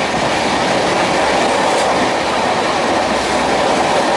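Running noise of an Indian Railways sleeper-class coach in motion, heard from inside: a loud, steady rumble and rattle of the wheels on the track.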